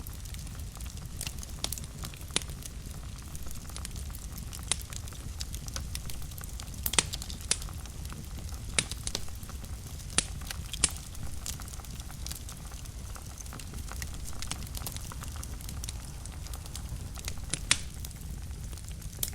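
Fire burning in a fireplace: a steady low rumble of flames with sharp crackles and pops scattered irregularly throughout, the loudest pops about seven, ten and seventeen seconds in.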